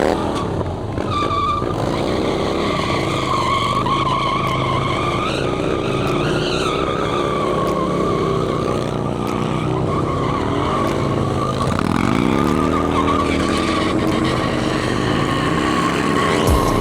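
Motorcycle rear tire squealing steadily against the pavement during a stunt, with the engine revving up and down beneath it; the revs drop and climb again about twelve seconds in.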